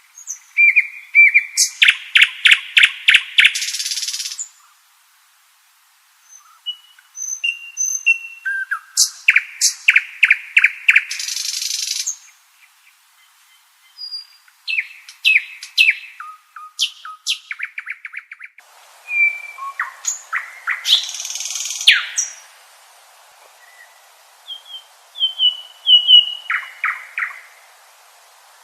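Common nightingale singing: about five loud, varied phrases separated by short pauses, mixing pure whistled notes with fast runs of repeated notes and a harsher buzzy trill at the end of several phrases. A faint steady hiss lies under the last two phrases.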